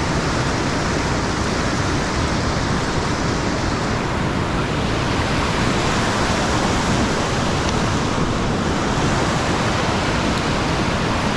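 Whitewater rapids rushing steadily, a loud even wash of water with no change in level.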